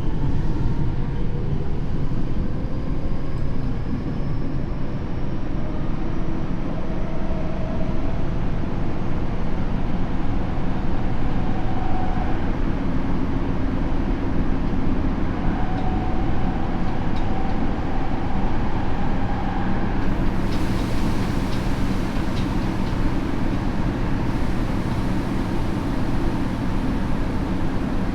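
Tokyo Metro 7000 series subway train heard from inside the car, its Hitachi IGBT inverter and traction motors whining upward in pitch as it accelerates. It then runs on steadily with motor hum and wheel-on-rail rumble, and a hiss rises about twenty seconds in.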